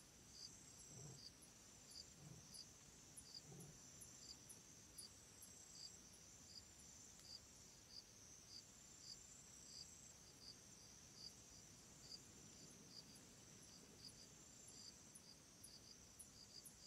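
Faint chirping of insects: short high chirps repeating about every two-thirds of a second over a steady high trill.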